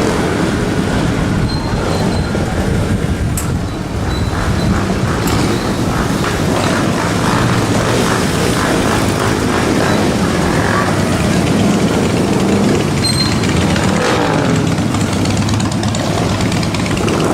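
Motor vehicles in a parade, such as trucks pulling floats, running steadily as they pass at low speed.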